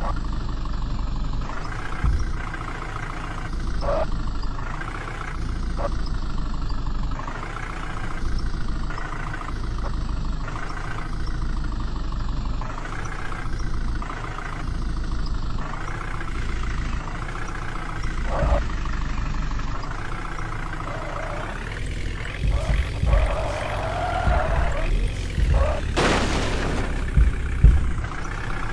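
Tractor diesel engine running steadily, with a single sharp knock near the end.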